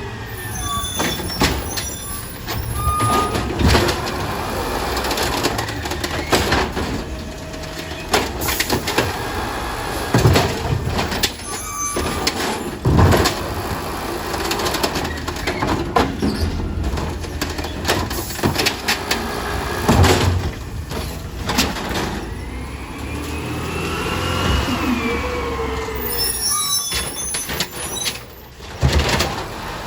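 Garbage truck working its collection route: engine running, with repeated bangs and clanks and a few rising and falling whines.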